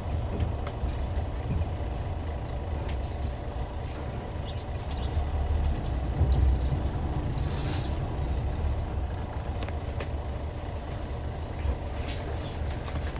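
Hyundai D6CC straight-six diesel engine of a Hyundai Universe coach running with a steady low rumble, with a brief hiss about halfway through.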